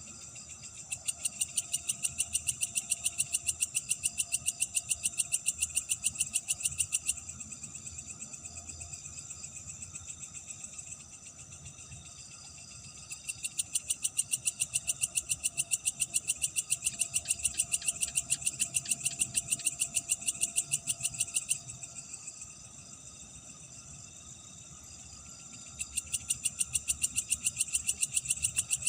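Night chorus of crickets and other calling animals: a steady high trill throughout, with three bouts of loud, rapid pulsed calling lasting several seconds each, starting about a second in, near the middle, and near the end.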